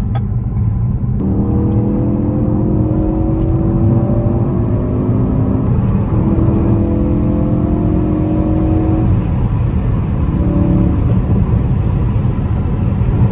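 Mk3 Ford Focus RS's turbocharged four-cylinder engine heard from inside the cabin over steady road rumble, accelerating. From about a second in the engine note climbs for several seconds, drops at a gear change about halfway, climbs again, then eases off.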